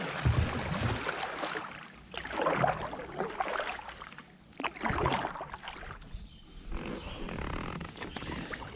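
Kayak paddle strokes in the water, with splashing and dripping off the blades that swell and fade about every one to two seconds.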